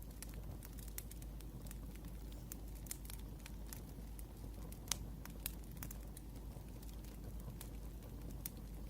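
Wood fire crackling: irregular small pops and snaps, with one sharper pop about five seconds in.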